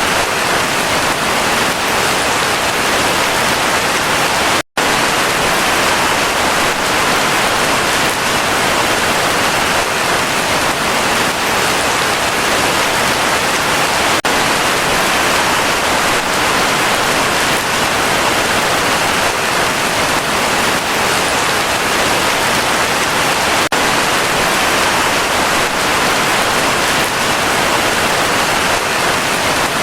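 Heavy rain falling steadily, a dense even hiss, broken once by a split-second dropout to silence about five seconds in.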